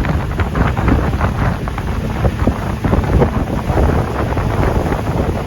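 Wind buffeting the microphone aboard a moving boat: a loud, steady, rumbling rush with irregular crackles.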